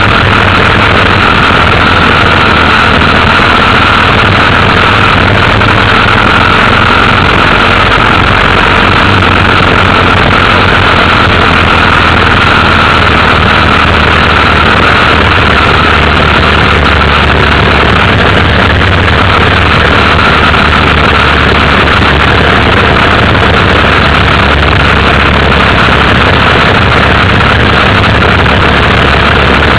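Motorcycle engine running steadily while riding, a loud, unbroken drone.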